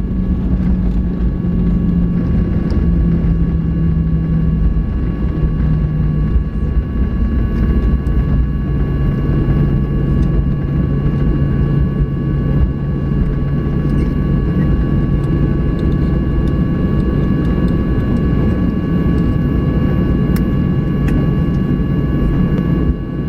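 Boeing 737-800 cabin noise from its CFM56-7B jet engines and the airframe, a loud steady rumble with a few steady whining tones. A low tone steps down in pitch over the first several seconds as the aircraft slows on the ground just after landing.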